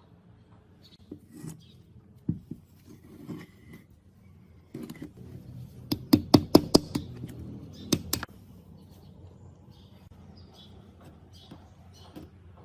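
Workshop handling noises: scattered clicks and knocks, then a quick run of about eight sharp taps over two seconds, about six seconds in.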